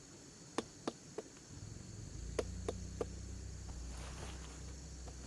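Insects chirring steadily in the background, with two quick runs of three sharp knocks and a low rumble starting about a second and a half in.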